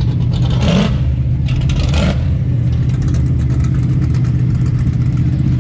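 A car engine running with a steady low rumble. Two short whooshes of noise come about one and two seconds in.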